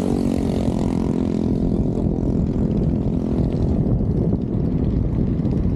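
Wind buffeting the microphone of a moving bicycle rider, a steady low rumble. A passing motor vehicle's engine drone fades away within the first second.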